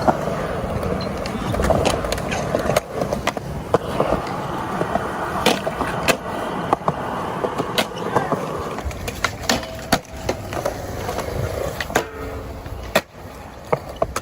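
Skateboard wheels rolling on hard ground with a steady rumble, broken by many sharp clacks of the board's tail and wheels hitting the ground.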